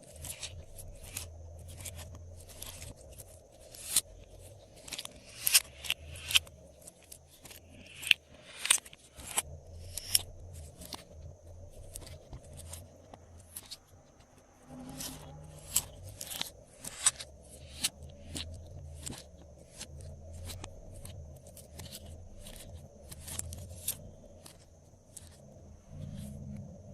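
Glossy slime being squished, stretched and mixed by hand, giving irregular sticky clicks and pops as air pockets burst. The clicks come thickest in the first half.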